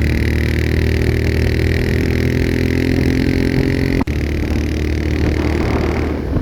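Motorcycle engine running steadily under way on a rough off-road track. It breaks off briefly about four seconds in, then sounds rougher and eases off near the end.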